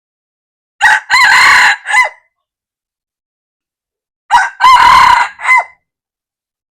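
Red junglefowl rooster crowing twice, each crow short and clipped: a brief opening note, a held middle and a quick falling end.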